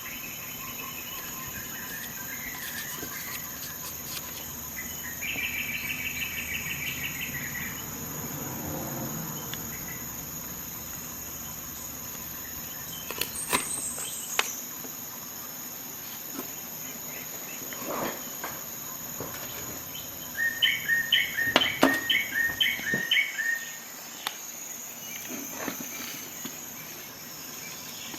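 Insects chirring steadily at a high pitch. A bird twice sings a quick run of repeated notes, the second run louder. A few sharp clicks come in between.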